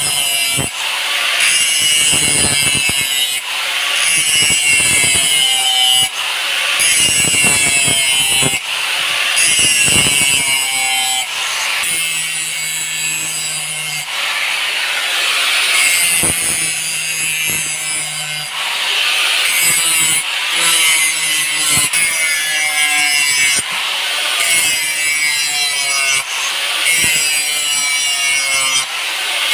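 Hand file rasping back and forth over the leaf-spring steel blade in steady, repeated strokes, shaping it before hardening.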